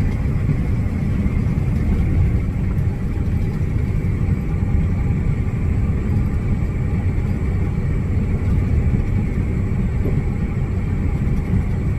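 Semi truck tractor on the road, its engine and road noise making a steady low rumble.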